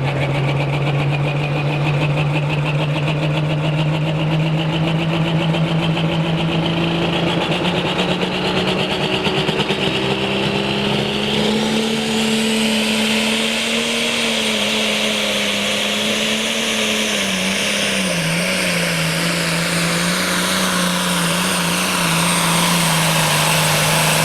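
Super-stock class pulling tractor's turbocharged diesel engine at full throttle on a pull. The engine pitch and a high turbo whine climb steadily over the first dozen seconds. Later the engine pitch sags and wavers as the sled loads it down.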